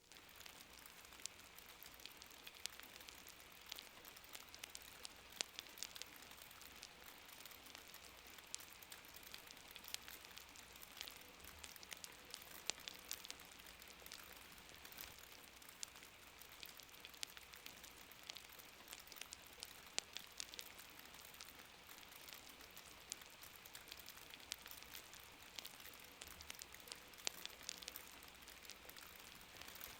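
Faint, steady soft rain hiss mixed with a crackling fire, with frequent sharp pops and snaps scattered irregularly throughout.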